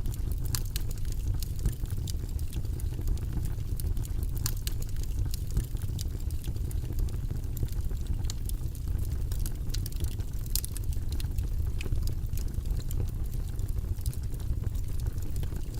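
Steady low, rumbling background noise track with no breaks, sprinkled with faint, irregular small clicks.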